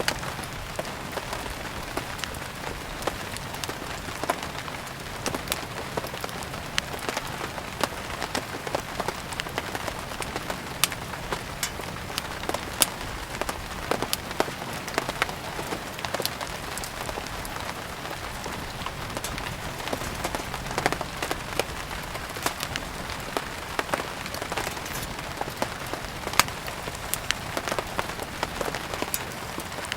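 Steady rain hiss with many sharp, irregular pops and crackles, as of firewood burning.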